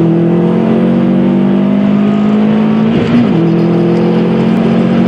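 Subaru WRX STI's turbocharged 2.5-litre flat-four engine pulling hard during a 0–200 km/h run. It runs at a steady pitch, with a short dip and recovery about three seconds in.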